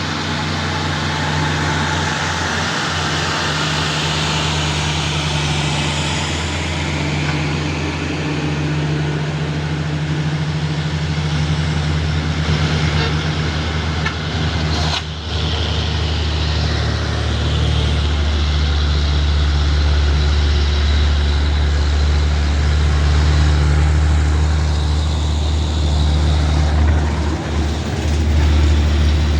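Diesel truck engine running steadily, with its low note shifting and growing stronger a little past halfway.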